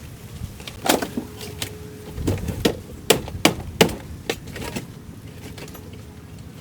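A run of about ten sharp knocks and clicks, uneven in spacing and strength, over a steady low hiss, as from hand tools at work during the car's restoration.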